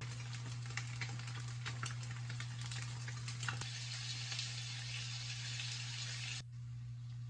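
Food frying in a hot pan: a steady sizzle with many small crackles and pops, stopping abruptly about six seconds in. A steady low hum runs underneath.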